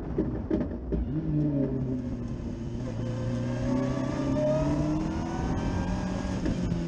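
Open-cockpit hillclimb car's engine heard from on board, running at low revs as the car cruises slowly. The engine note shifts in the first second, then settles into a steady drone that rises a little mid-way and eases off near the end, with wind and tyre hiss underneath.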